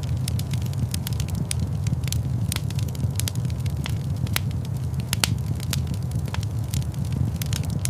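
Fireplace fire crackling, with irregular sharp pops over a steady low rumble of flames.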